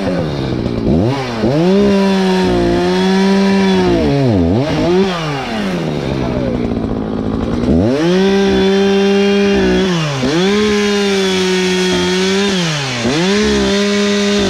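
Two-stroke chainsaw running at full throttle in long held stretches, with its pitch dropping sharply and climbing back several times and a lower-revving lull about halfway through.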